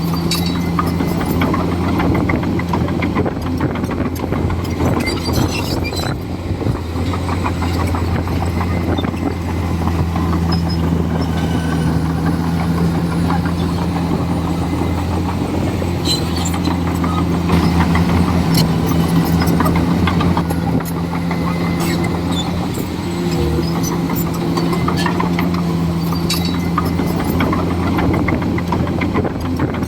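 Komatsu D41E bulldozer's diesel engine running steadily under work, with scattered knocks and clanks over the engine note.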